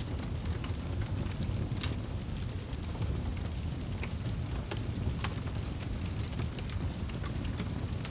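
Wood fire crackling: irregular sharp pops and snaps over a steady low rumble of the burning firewood.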